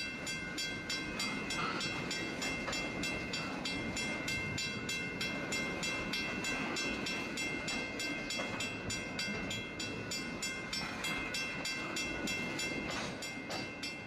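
Freight train passing: a steady rumble with an even rhythm of about four clacks a second and steady high ringing tones over it.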